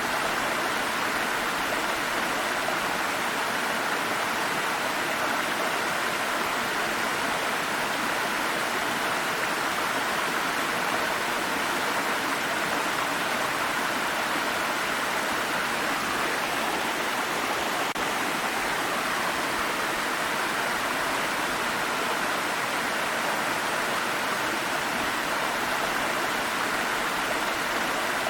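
Water stream flowing, a steady, unbroken rush of water.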